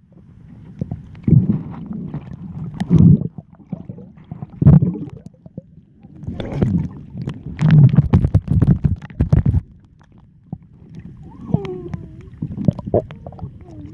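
Seawater sloshing and splashing close to the microphone in irregular surges, with a low, muffled rumble, heaviest in the middle and easing off near the end.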